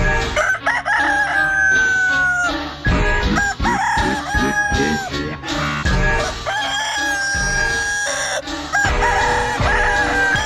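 A rooster crowing several times in a row, long drawn-out crows, over music with a heavy bass beat.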